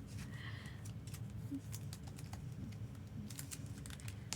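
Faint scattered clicks and light rustling from cards and packaging being handled, with one sharper click near the end.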